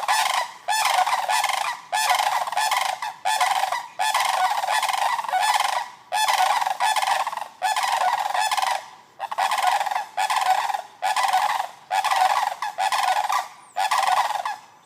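A flock of large backyard birds calling loudly together: a long run of harsh, honking calls, about one or two a second, that breaks off just before the end.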